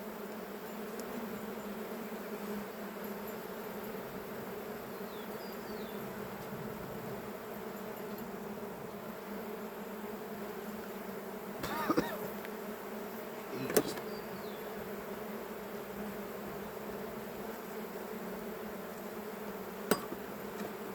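Honeybees buzzing steadily around an open hive, a dense continuous hum. A few short sharp clicks stand out, around the middle and once near the end.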